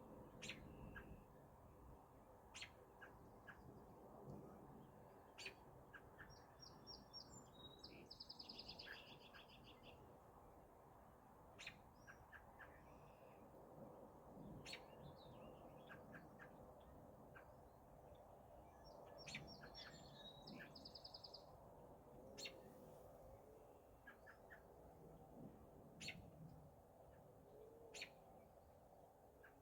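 Faint wild birdsong: scattered short, sharp chirps throughout, with two fast trills of rapidly repeated notes, one about eight seconds in and one about twenty seconds in, over a soft outdoor background hush.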